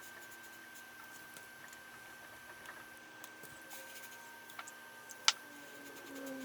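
Faint scattered light clicks and ticks, with one sharp click about five seconds in, over a faint steady high-pitched hum.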